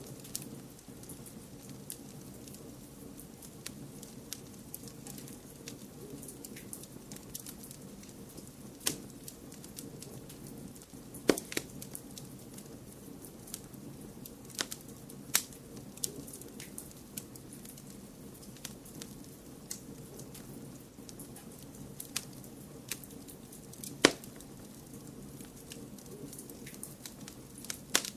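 Wood fire crackling: a steady low rush of flames with scattered sharp pops and snaps, the loudest about 11, 15 and 24 seconds in.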